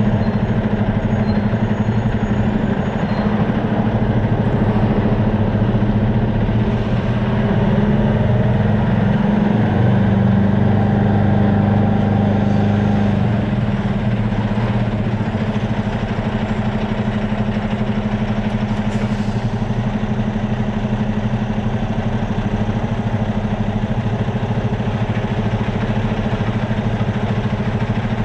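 Semi truck's diesel engine idling steadily, a constant low drone with a slight change in pitch about ten seconds in.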